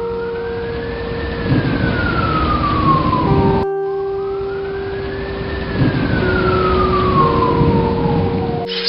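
A wailing tone that rises for about a second and then slowly falls, heard twice, over steady held music notes and a low rumbling noise.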